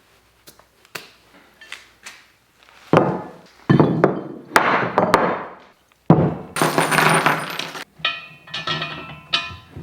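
Metal parts of a manual tire changer clinking and clattering as it is handled and put together: a few light clicks, then several longer scraping or rustling noises and a ringing clink near the end.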